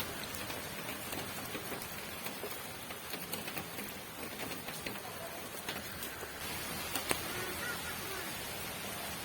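Steady rain falling, an even patter with scattered individual drop taps, one sharper tap about seven seconds in.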